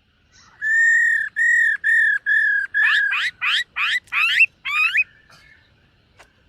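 Black-throated laughingthrush singing: a run of five steady, clear whistled notes, then about six quick upward-sweeping whistles. The phrase stops about five seconds in.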